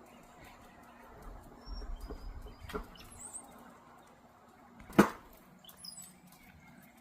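Faint, scattered high bird chirps, a few short notes and quick upward glides, with one sharp knock about five seconds in.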